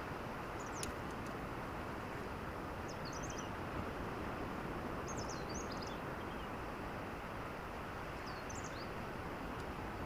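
Steady, even outdoor rushing noise, with short high chirps from a small animal four times.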